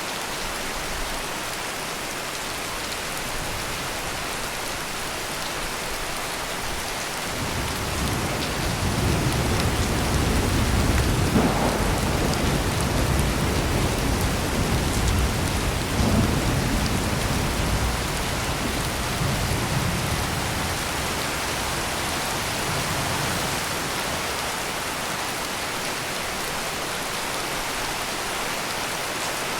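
Steady heavy rain with a long roll of thunder that swells about a quarter of the way in, peaks twice near the middle, and rumbles away over the second half while the rain keeps on.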